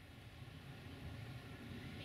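Faint low rumble of an approaching electric freight train, swelling slightly about halfway through.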